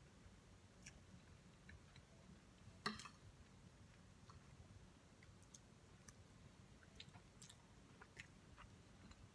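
Faint chewing and mouth clicks of someone eating, with one sharper click about three seconds in.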